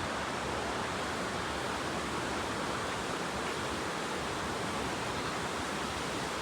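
Steady rush of flowing creek water, an even noise with no breaks.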